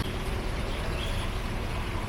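Steady outdoor background noise, with a faint bird chirp about a second in.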